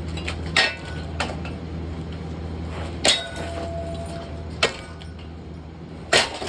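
Harbor Breeze Barnstaple Bay ceiling fan being struck hard five times at uneven intervals. The strikes land on metal, and one about three seconds in leaves a brief metallic ring.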